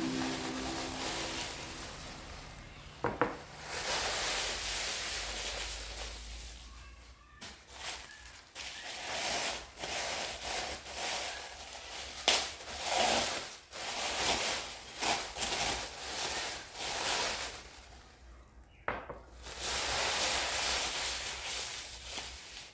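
Rustling and rubbing handling noises coming in uneven stretches, with a few sharp clicks in between.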